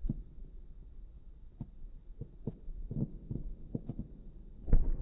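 Fireworks shells bursting at a distance: a string of irregular dull booms and pops, with the loudest boom about four and a half seconds in.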